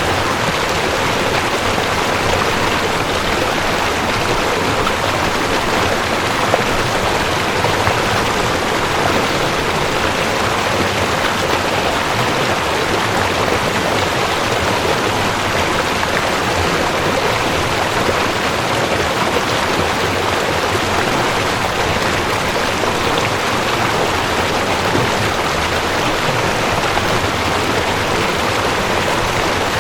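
Mountain stream of cold water rushing over rocks, a steady, even rush of water.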